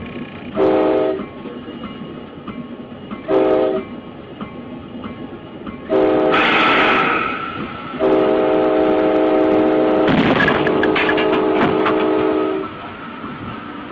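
Train horn sounding: two short blasts, then a longer one and a final blast held about four and a half seconds, over the rumble of a moving train. About ten seconds in, a burst of sharp knocks and clatter breaks through during the last blast.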